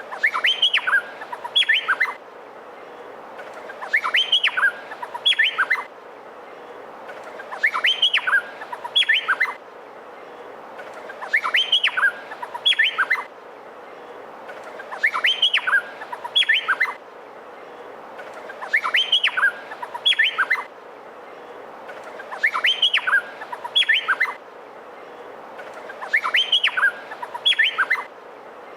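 Male Meliphaga honeyeater (cucak pantai) singing: a phrase of sharp, sweeping whistled notes about two seconds long, repeated about every three to four seconds over a steady hiss.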